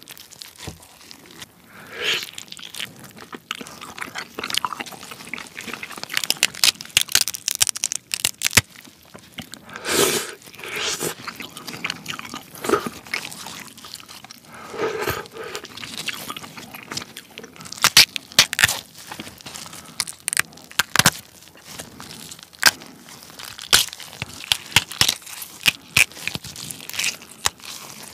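Close-miked king crab being pulled apart by gloved hands: shell and cartilage crackling and snapping and meat tearing in quick irregular clicks, with some chewing mixed in.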